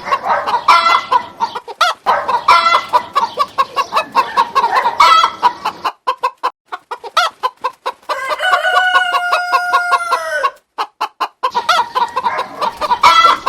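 Chickens clucking in many short, quick calls, with a rooster crowing once, a long held call from about eight seconds in that drops in pitch at its end.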